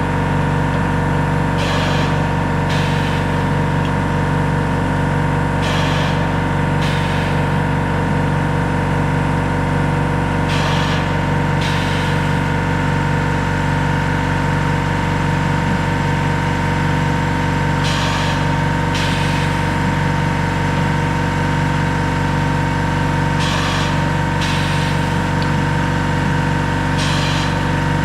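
A motor running steadily at constant speed. Short hissing bursts come in pairs about a second apart, every few seconds.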